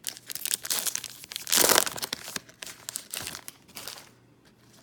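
A 2019 Topps Allen & Ginter card pack wrapper crinkling and being torn open by hand, with the loudest rip about one and a half seconds in. The crinkling dies down about four seconds in.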